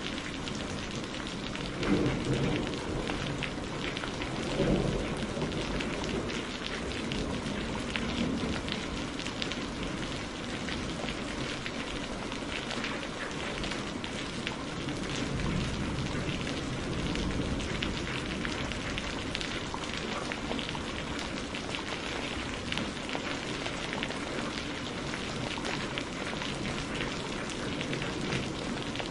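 Steady heavy rain with fine crackling, and two rumbles of thunder about 2 and 5 seconds in.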